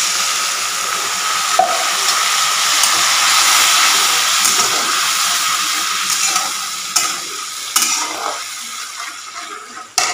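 Tomato and green-chilli paste sizzling loudly in hot oil in a metal kadhai as it is stirred, the sizzle dying down in the last few seconds. A few sharp knocks of a spoon against the pan come near the end.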